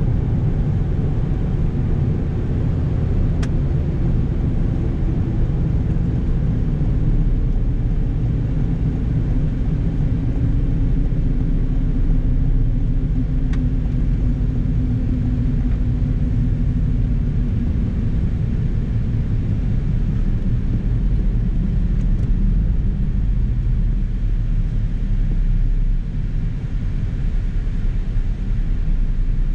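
Toyota Yaris engine and road noise heard inside the cabin at track speed, a steady low drone. A clear engine note holds for several seconds in the middle and then fades. The sound eases slightly near the end as the car slows.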